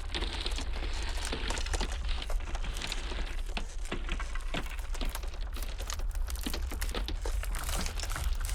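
Ice cracking and crackling: a dense, irregular run of small sharp cracks, some louder than others, over a steady low rumble of blizzard wind.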